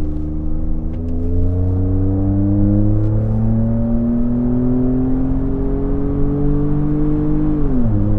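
Ford F-150 EcoBoost twin-turbo V6 accelerating, its engine pitch climbing steadily for several seconds, then dropping sharply near the end as it shifts up a gear.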